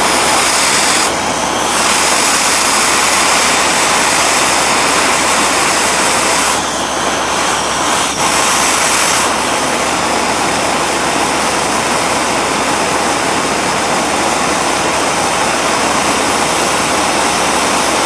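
Gas torch flame burning with a steady loud roar and hiss, heating a U-joint cap to melt out its plastic retainer. The hiss grows sharper briefly about a second in and again for a few seconds midway.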